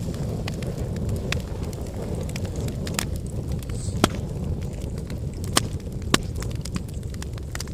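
Outdoor cooking fire crackling: a handful of sharp pops, the loudest about four seconds in, over a steady low rumble.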